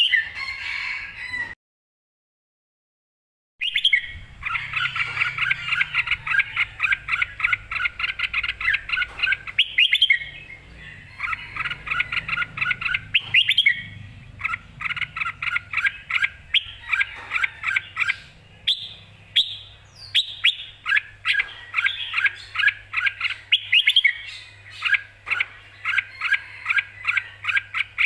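Red-whiskered bulbul singing: rapid runs of short, clear chirping notes in repeated phrases. The sound cuts out completely for about two seconds near the start.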